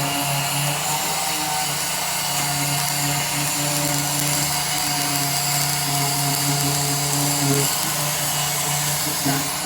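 A power tool running steadily with a high hissing whine, which cuts off just after the end.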